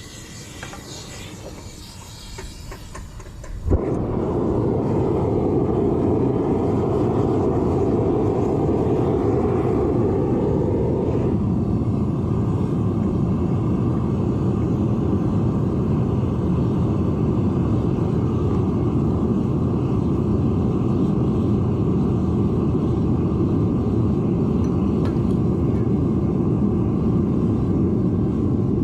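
Propane-fired Devil Forge furnace being lit. Gas hisses for a few seconds, then the burner catches with a sharp pop about four seconds in and runs with a loud, steady roar. A little after ten seconds it dulls slightly as the flame is adjusted.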